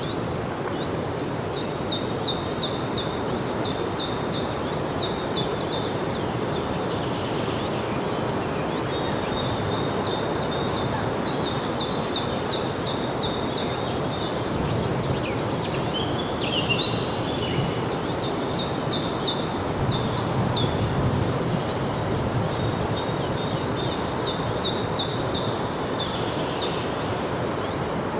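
Outdoor park ambience: a steady low background hum, with a high, rapidly pulsing trilling call heard four times, each bout lasting a few seconds.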